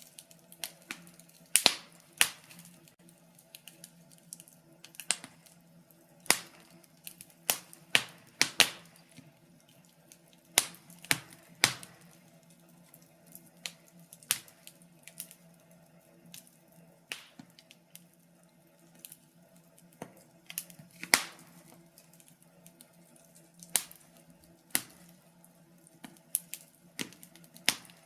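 Wood fire crackling: irregular sharp snaps and pops, about one or two a second with a few louder ones, over a faint steady low hum.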